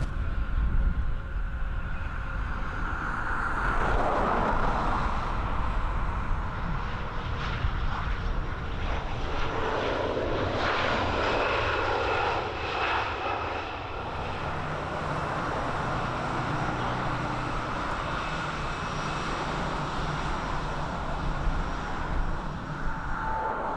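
Airplane engines running: a steady high whine over a broad rush of engine noise, the rush shifting in pitch as the aircraft moves.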